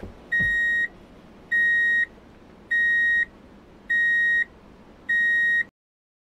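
Reversing-alarm beeper of the kind fitted to a forklift: five even beeps, each a steady high tone about half a second long, one every 1.2 seconds. It stops abruptly near the end.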